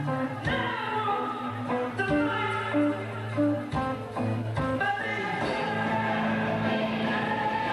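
A band playing a song: singing over guitar.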